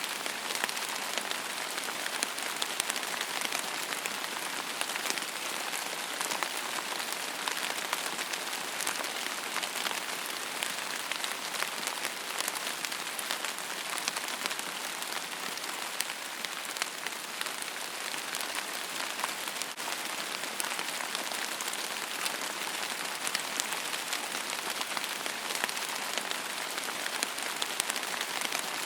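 Steady rain falling on a hard surface: a dense, even hiss strongest in the high range, made of countless small drop impacts, with no change in strength.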